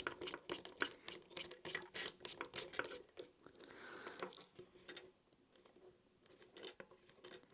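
Faint small clicks and taps of hands and a screwdriver working on a small RC helicopter's airframe and screws, several a second, then a soft rustle about three and a half seconds in and quieter, sparser handling.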